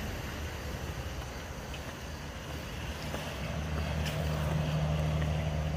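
A car's engine running with a low hum that grows louder in the second half as the car comes close.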